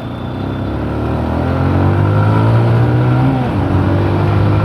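Motorcycle engine accelerating as the bike pulls away, its pitch rising for about three seconds, dropping briefly at a gear change, then pulling on steadily.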